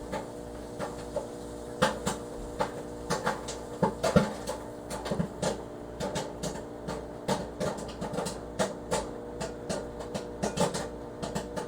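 Coloring strokes on a paper coloring-book page: irregular short scratches and taps, a few a second, over a steady low hum.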